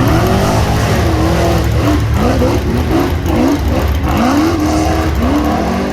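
Rock bouncer buggy engine revving hard, its pitch climbing and dropping again and again under heavy throttle, fading out near the end.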